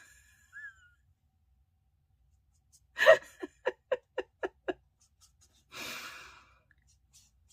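A woman laughing in a quick run of about seven short "ha" pulses, followed by a breathy exhale a second or so later.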